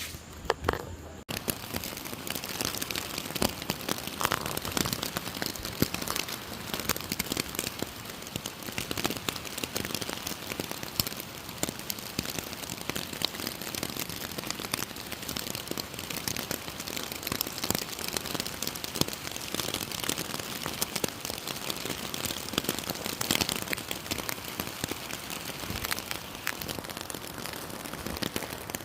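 Rain falling steadily, a dense crackle of drops striking a surface, coming in abruptly about a second in.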